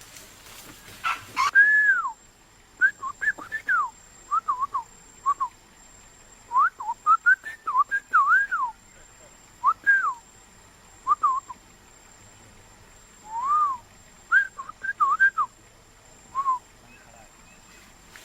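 A person whistling short, pure notes that rise and fall, in irregular groups with pauses between them.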